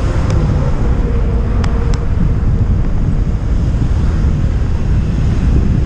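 Heavy wind buffeting on the microphone from riding a bicycle, a steady low rumble, with a faint steady hum in the first couple of seconds and a couple of light clicks.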